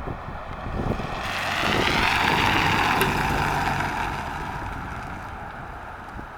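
A car passing by: a rush of tyre and wind noise that swells, peaks about two and a half seconds in, and slowly fades away.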